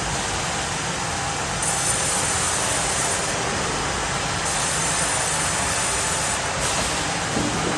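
Sawmill machinery running steadily, with a higher-pitched whine coming in twice for about two seconds each.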